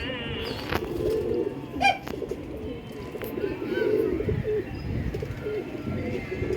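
Domestic pigeons cooing repeatedly, low rolling coos overlapping one another, with higher chirps from other birds and one sharp call about two seconds in.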